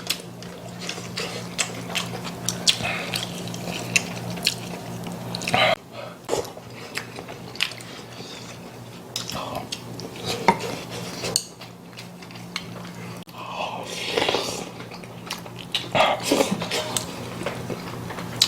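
Spoons and chopsticks clinking and scraping against bowls and a stew pot during a meal, in many short irregular clicks, with some chewing. A steady low hum runs underneath.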